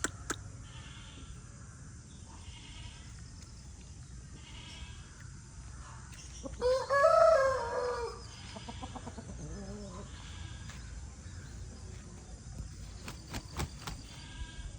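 A young Aseel cockerel crowing once, about halfway through: a single crow of about a second and a half that rises and falls in pitch.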